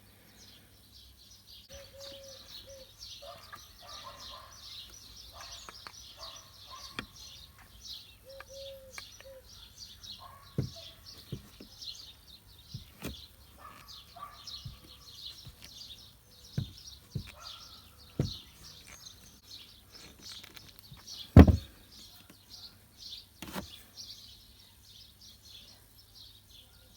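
Birds chirp steadily throughout, with scattered sharp clicks and knocks from hand work on small metal parts. The loudest is a single knock about two-thirds of the way through.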